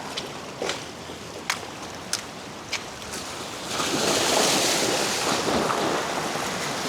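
Sea surf washing against the rocks, swelling into a loud rush about four seconds in. It follows a handful of sharp clicks in the first three seconds.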